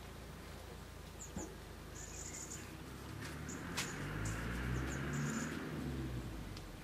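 Garden ambience: small birds give short, high chirps now and then over a low rumble, with a couple of sharp clicks.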